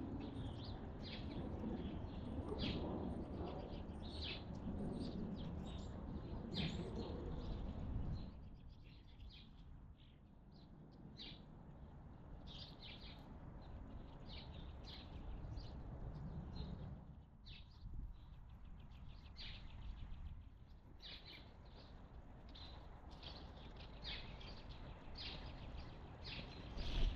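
Many short bird chirps at a feeding spot, a few a second, scattered throughout. Under them is a steady low background noise that drops away about eight seconds in.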